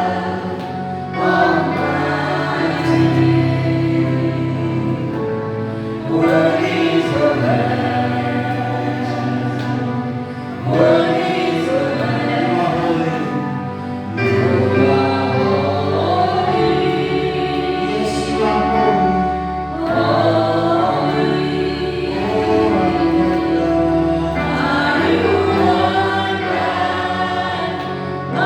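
A choir singing gospel worship music in long phrases of held notes.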